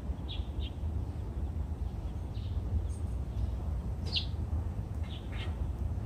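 Small birds chirping: short, high chirps every second or so, a pair together near the start and the loudest about four seconds in, over a steady low rumble.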